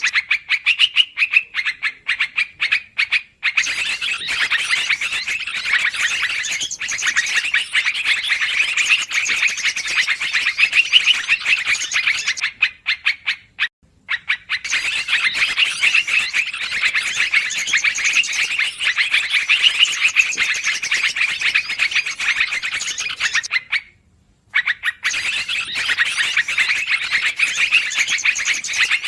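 Yellow-vented bulbuls (trucukan) chattering noisily in a dense, rapid stream of chirps, a bird-trapping lure call. The chatter breaks off briefly three times, about 3, 13 and 24 seconds in.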